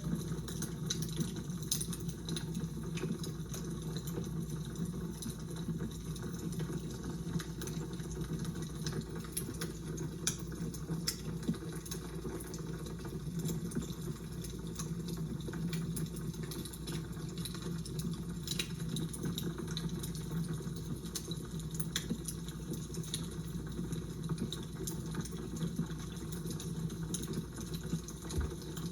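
Fire crackling: a steady low rush with scattered sharp pops and snaps throughout.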